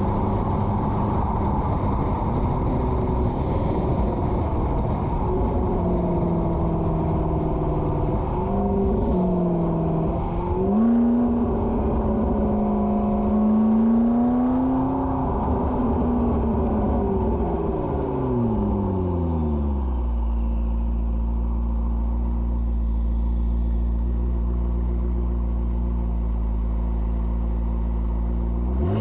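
McLaren 12C's twin-turbo V8, with a modified exhaust, running. The revs climb and waver through the middle, then fall away over several seconds and settle to a steady low drone for the last nine seconds or so.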